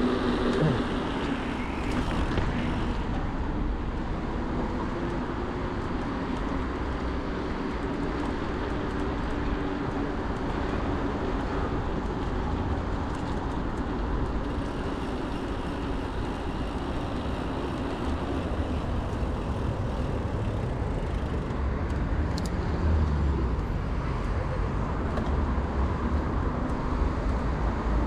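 Steady city road traffic noise with a low rumble. A faint humming tone fades out over the first few seconds.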